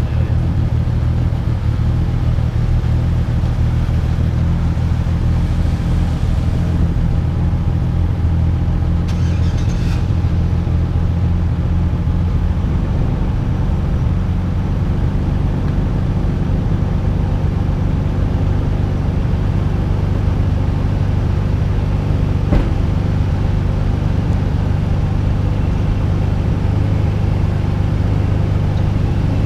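Nissan Skyline R32 GT-R's twin-turbo straight-six running at a fairly steady speed under way, with wind and road noise on a hood-mounted camera. A brief hiss about nine seconds in and a sharp click about 22 seconds in.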